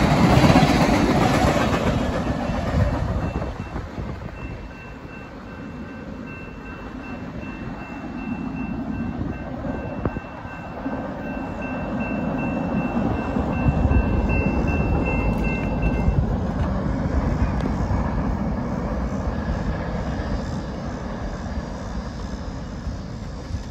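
Last cars of a BNSF mixed freight train rolling past, wheels rumbling and clattering on the rails. The sound drops away over the first few seconds as the end of the train passes, and a lower rumble lingers and slowly fades.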